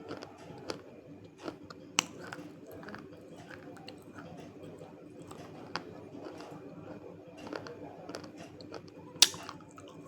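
Dry, crunchy chunks of multani mitti (Fuller's earth clay) being chewed, with a few sharp bites cracking through, the loudest near the end.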